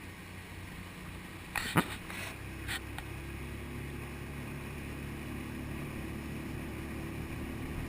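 Motorboat engine running steadily under way, its hum firming up a little after about two seconds. A sharp knock, the loudest sound, comes about two seconds in, with a lighter one just after.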